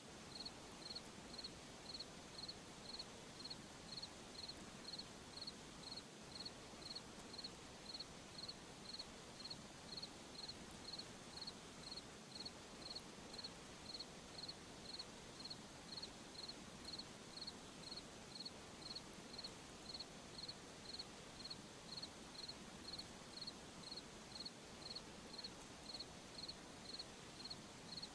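A cricket chirping at a slow, even rate, about three chirps every two seconds, over a faint steady hiss of night ambience.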